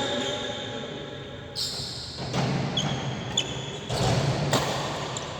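Badminton play in a large hall: short high squeaks of shoes on the court, and sudden sharp hits that come several times.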